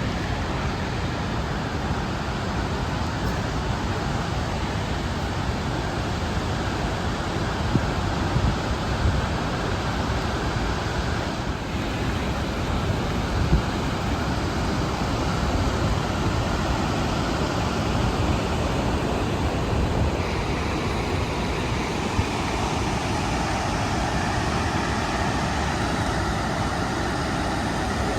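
Steady rushing of a large waterfall, heavy, constant water noise with no pauses.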